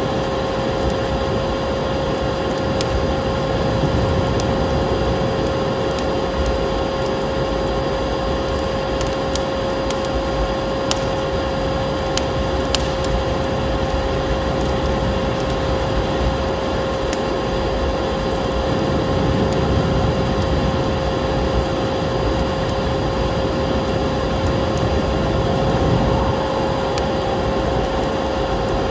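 A vacuum cleaner's motor drones steadily with a constant hum, mixed with a wood fire crackling and popping in scattered sharp snaps.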